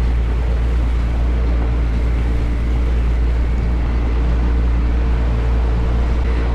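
Personal watercraft engine running steadily under way, with the rush of water and wind over it.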